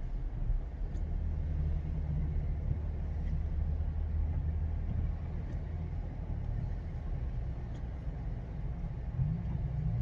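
Car driving along a road, heard from inside the cabin: a steady low rumble of engine and tyre noise, with a few faint ticks.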